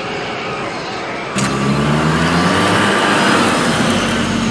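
Car engine revving and accelerating away, cutting in suddenly about a second and a half in: a slowly rising engine note over a loud rushing noise, a sound effect for a car speeding off.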